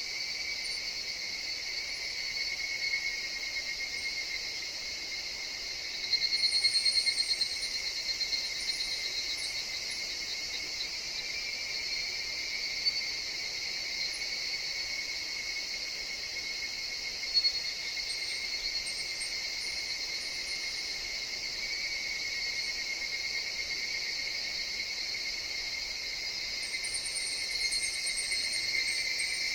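A steady, shimmering chorus of higurashi (evening cicadas) in a forest. About six seconds in, one nearer cicada calls louder in a quick pulsing trill for a second or so. A few brief high chirps and two short ticks sit over the chorus.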